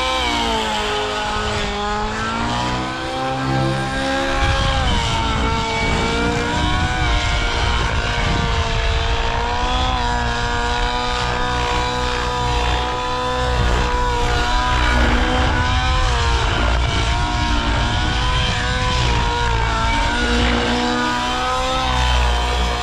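O.S. 1.05 HZ-R two-stroke nitro glow engine of a SAB Goblin Raw 700 RC helicopter running with the rotor spinning, freshly leaned a couple of clicks on the needles so it sounds better. Its pitch dips and climbs back in the first few seconds, then holds steady, with a low rumble joining about four seconds in.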